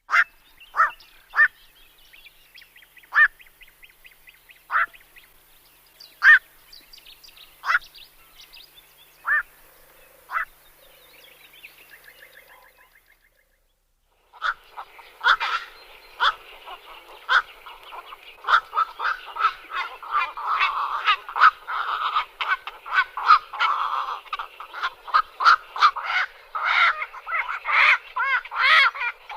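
Black-crowned night herons calling with short, harsh croaks. For the first ten seconds single calls come a second or two apart; after a brief silence many calls follow densely, overlapping one another.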